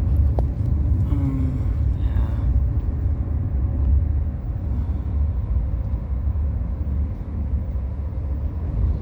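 A steady, low rumble of background noise, with faint voices briefly about a second in.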